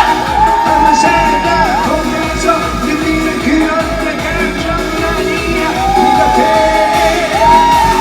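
Live pop-rock band music played loud through a concert PA: a steady kick-drum beat under a lead melody of long held notes that bend in pitch, during a break between sung lines.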